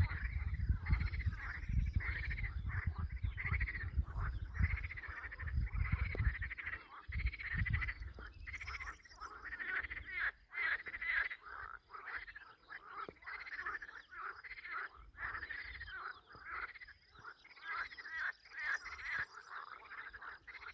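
A chorus of frogs croaking, many calls overlapping and repeating without a break. A low rumble lies under them for the first several seconds, then drops away.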